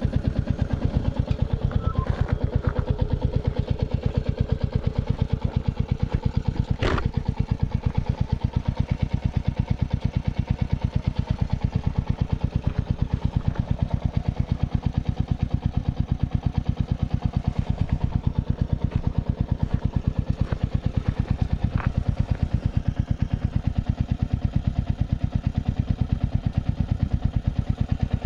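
Royal Enfield Bullet 350's single-cylinder four-stroke engine idling with a steady, even thump, with a couple of brief clicks.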